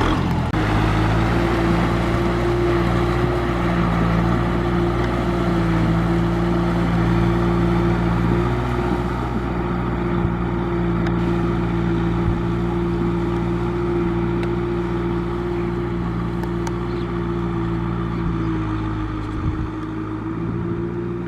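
Tractor engine running steadily at a constant pitch, easing slightly in level toward the end.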